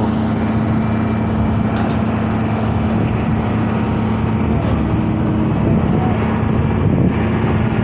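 Road-construction spray machine running with a steady engine hum while it sprays a surface coat over the new road.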